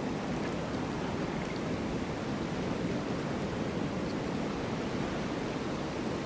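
Steady, even rush of snowstorm wind, a low continuous noise with no gusts or breaks.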